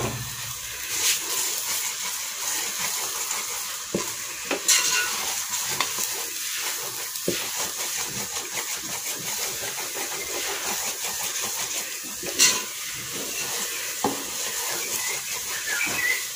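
Beaten eggs frying with tomato and onion in a metal pot, sizzling steadily, while a wooden spatula stirs and scrapes through them, with a few sharper knocks of the spatula against the pot.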